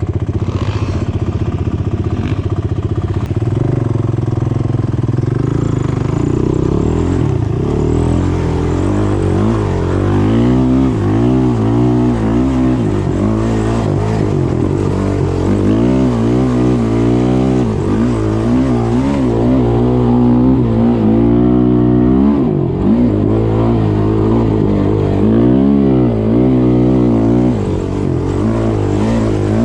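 Single-cylinder off-road engine under way, its pitch rising and falling over and over as the throttle is worked and the gears are changed.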